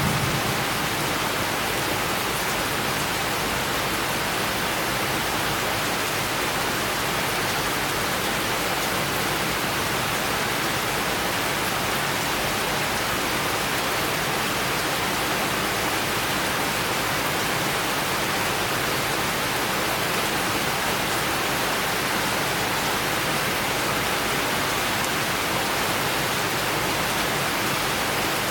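Heavy rain from a thunderstorm falling steadily, an even hiss with no breaks.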